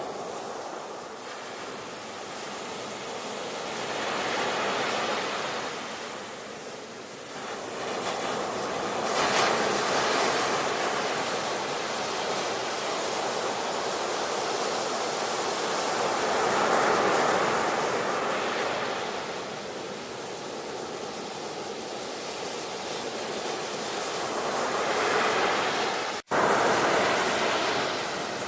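Ocean surf: waves breaking and washing ashore, the noise swelling and ebbing every several seconds. Near the end the sound cuts out for an instant, then resumes.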